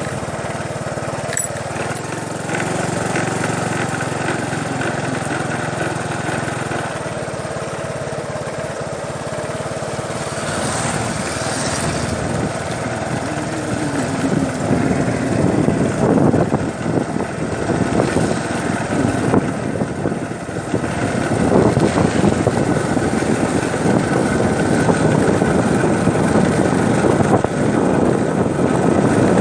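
A small engine running steadily, its sound growing louder and rougher in the second half.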